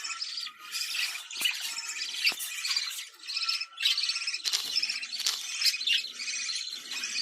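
Budgerigars warbling and chattering: a dense, fast run of chirps, squawks and clicks with short breaks.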